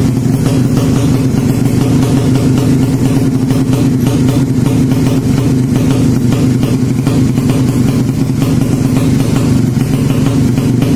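A 200cc drag-bike motorcycle engine, a horizontal-cylinder 'sleep engine', idling steadily.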